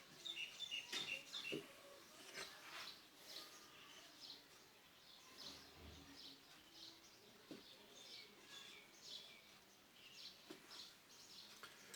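Faint birds chirping in the background, short scattered chirps over near silence, with a few soft clicks.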